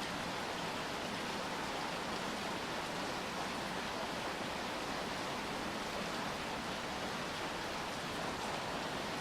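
Steady rain falling, an even hiss with no single drops, gusts or other events standing out.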